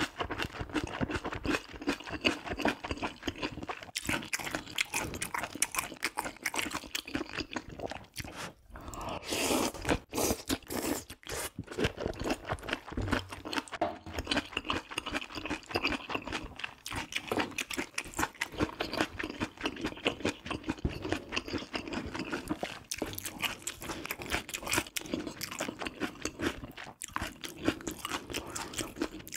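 A person chewing food into a close microphone: steady chewing full of small crunches and clicks.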